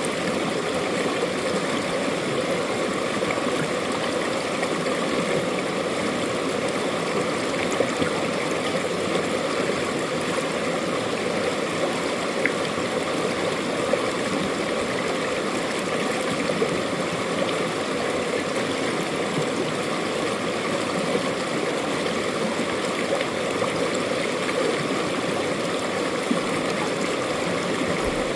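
Mountain valley stream: water flowing and splashing in a steady, unbroken rush.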